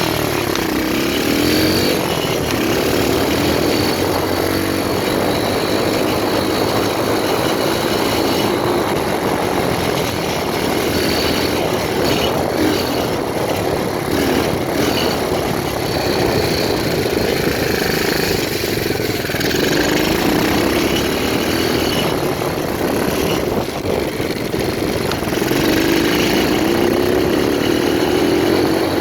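125cc pit bike engine running under riding load, its note rising and falling repeatedly as the throttle is opened and closed, with a rise again near the end.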